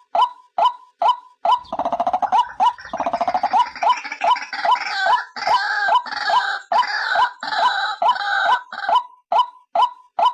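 White-breasted waterhen calling: a steady run of short single notes, about two and a half a second, with a loud, harsh, rapid croaking chorus breaking in about a second and a half in and fading out near the end while the single notes go on.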